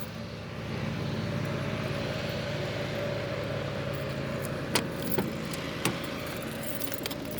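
Steady hum of a running vehicle engine, with a few sharp clicks about five and six seconds in.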